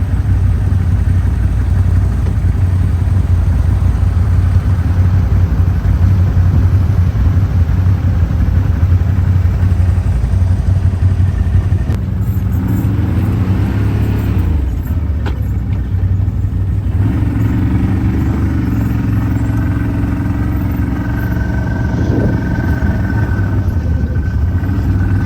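Off-road vehicle engine running steadily with a deep, continuous drone. About halfway through, a higher engine note joins in and rises and falls in pitch.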